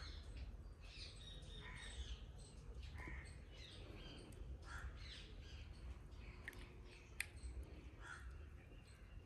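Faint birds calling in short repeated calls, about one a second, over a steady low rumble, with a single sharp click about seven seconds in.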